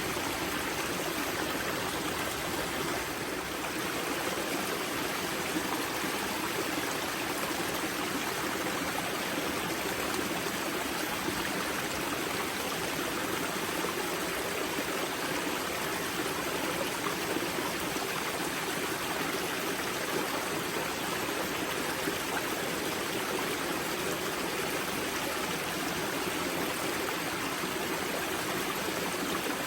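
Spring-fed river water flowing and splashing over stones at its wellhead, a steady, even rush with some trickling.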